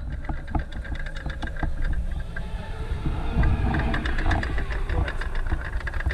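Demolition-derby car engine running at a low, steady rumble, with many short clicks and rattles over it.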